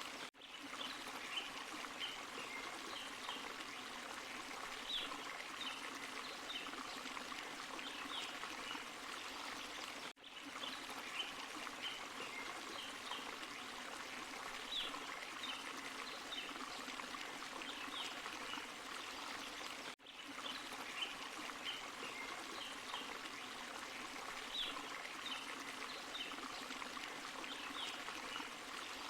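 Forest stream and small waterfall pouring and trickling steadily, with light high splashes over the rush. The level drops out briefly about every ten seconds as the same stretch of water sound repeats.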